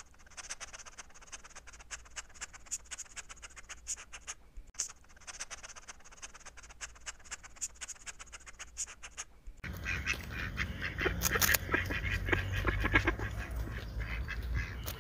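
Faint rapid ticking and rustling from a small caged rodent in wood-shaving bedding. After a cut, a louder outdoor scene takes over: a coypu chewing food, with a steady low rumble and animal calls.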